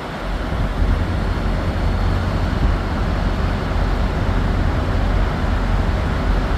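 Idling diesel semi-truck engines, a steady deep rumble with no distinct thunder clap.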